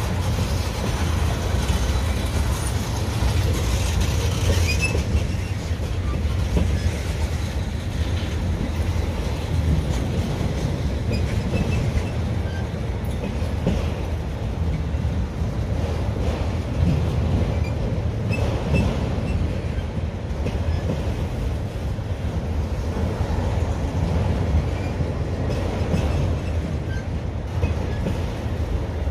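Freight cars of a Union Pacific manifest train rolling past close by: a steady low rumble of steel wheels on rail, with a few faint high wheel squeaks.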